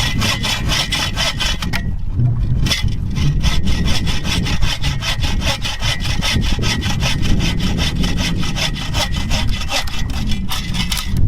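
Hand saw cutting through a wooden pole with fast, even back-and-forth strokes, pausing briefly about two seconds in.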